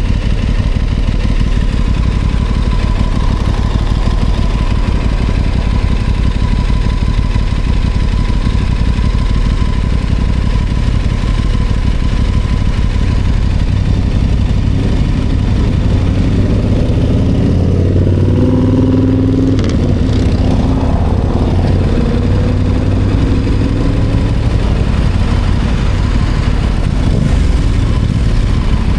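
Aprilia Tuono 660 Factory's parallel-twin engine running under a steady low rumble, its note rising and falling about two-thirds of the way through.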